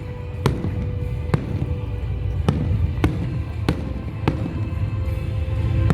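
Fireworks display: about seven sharp bangs of shells bursting at fairly regular intervals, over a continuous low rumble of more distant bursts, with music playing alongside.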